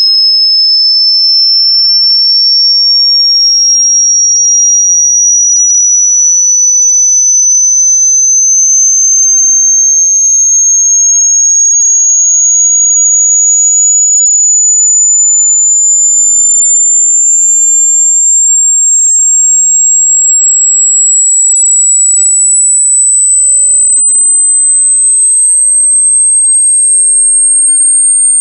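A single loud, high-pitched electronic sine tone, rising slowly and evenly in pitch.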